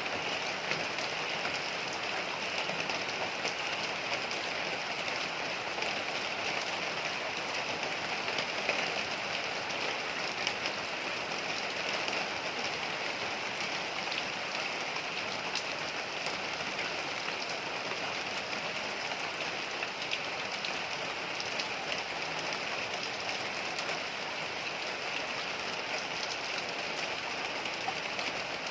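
Heavy rain falling steadily in a dense even hiss, with scattered drops pattering on hard surfaces.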